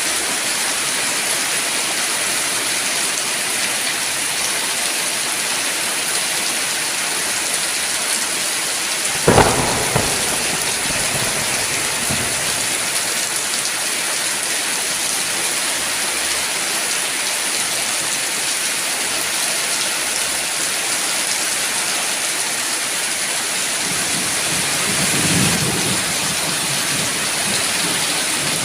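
Steady heavy rain falling, with a sharp crack of thunder about nine seconds in and a low rolling rumble of thunder near the end.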